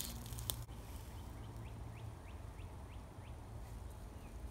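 A bird calling: a quick series of about seven short, falling chirps, roughly three a second, starting about a second and a half in, over a low steady rumble of wind and handling noise.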